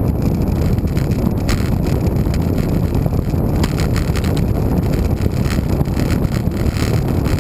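Wind buffeting the microphone of a camera riding on a moving road bike: a loud, steady low rumble.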